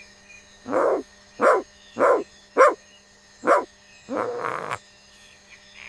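Tokay gecko calling: a series of about six loud, barking calls with short pauses between them, the last one longer and rougher.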